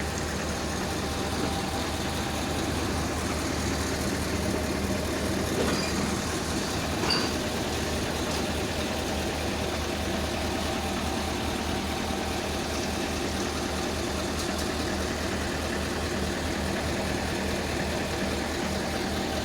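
Heavy truck's diesel engine idling steadily, a constant low hum.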